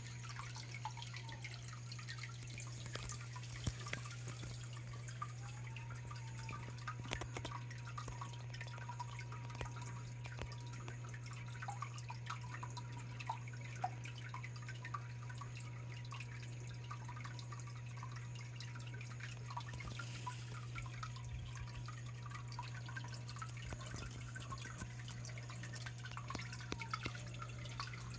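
Water of a small biotope pond's waterfall trickling and dripping, with many small irregular plinks and splashes over a steady low hum.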